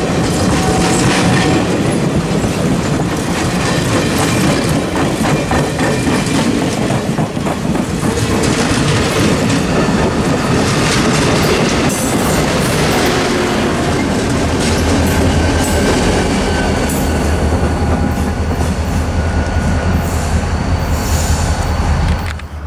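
Passenger train rolling past close by, with its steel wheels clacking rapidly over the rail joints under the coaches. From a little past halfway, a low steady engine drone joins in as the diesel locomotive at the rear of the train goes by. The sound drops away suddenly just before the end.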